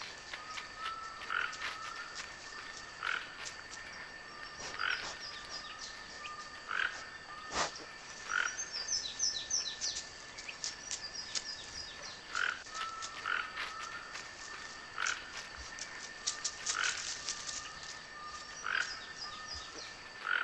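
Frogs calling in a wild chorus, a short call repeating about every two seconds along with softer chirping notes, over a steady high tone. One sharp click about a third of the way in.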